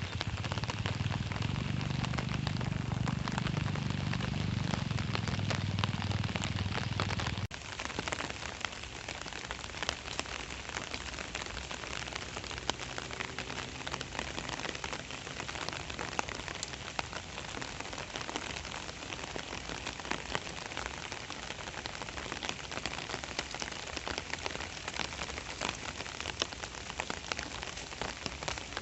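Steady rain falling, a dense patter of drops on wet surfaces. A low steady hum lies under it for the first seven seconds or so and stops abruptly.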